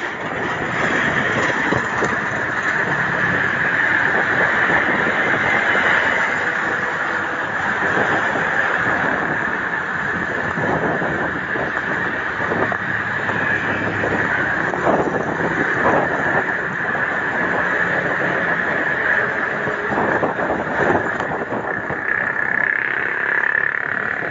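Wind and road noise while riding a bicycle, with a steady high-pitched drone running underneath.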